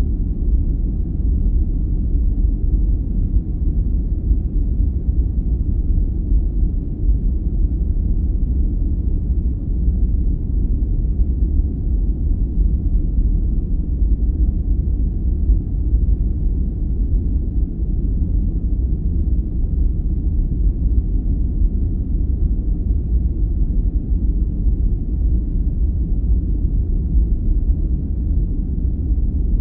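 Steady deep rumbling noise of a sleep-aid 'white noise' track, heavy in the lows with no hiss on top.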